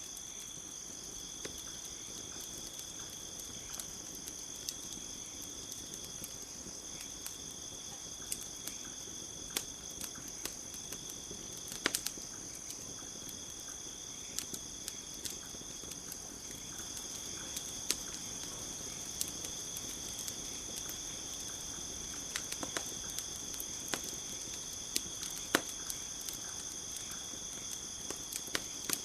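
Campfire crackling with scattered sharp pops, the loudest about 12 and 25 seconds in, over a steady high-pitched trilling of crickets.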